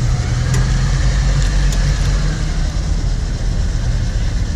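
Car engine running steadily at low revs, a low rumble, as the car is eased into a parking spot.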